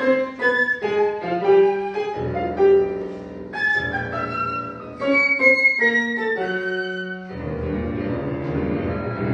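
Contemporary classical music for flute and piano: quick, high melodic notes over piano chords. About seven seconds in, the fast figures stop and a deep, low chord is left ringing.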